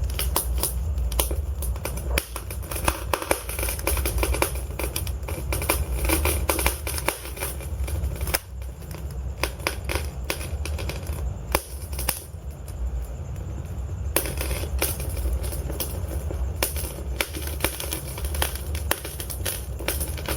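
Wood logs burning in a fireplace, crackling with frequent irregular sharp pops over a low rumble of flames; the crackling eases for a couple of seconds midway.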